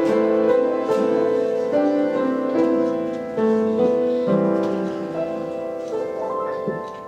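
Keyboard playing slow worship music: held chords that change every second or so, getting gradually softer toward the end.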